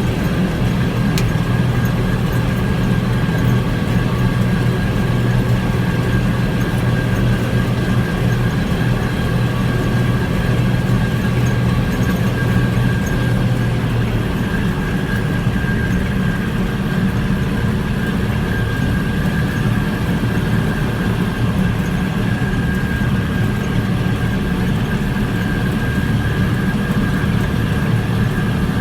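Tractor engine running steadily under constant throttle, a low even drone with a faint steady whine above it.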